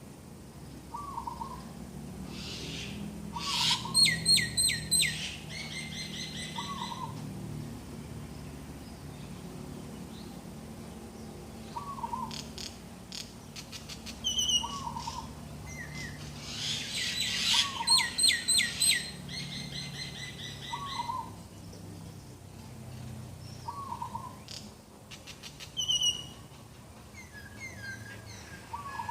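Morning birdsong from several birds: one gives a short low call over and over, every two to three seconds, while another twice breaks into a loud, rapid series of repeated notes, about four seconds in and again around eighteen seconds, with other scattered chirps between.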